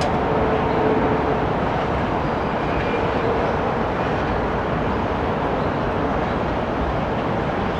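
Boeing 787-8 airliner running, an even, unchanging rush of jet noise with a faint steady hum underneath.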